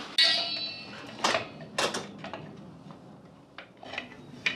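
Steel drum-brake parts, the brake shoes and their return springs, clinking and knocking as they are handled and offered up to the axle. It opens with a ringing metal clang, followed by a series of sharp clinks.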